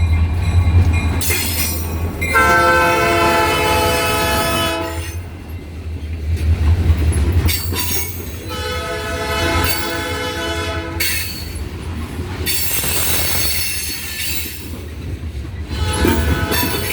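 Diesel freight locomotive's air horn sounding two long blasts, each about two and a half seconds, over the steady low rumble of the locomotive engines. Later comes a stretch of higher screeching, typical of wheel squeal, and a short horn note near the end.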